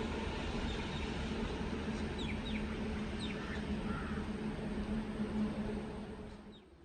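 A few short bird chirps over a steady, even outdoor background noise with a low hum; the background drops away sharply near the end.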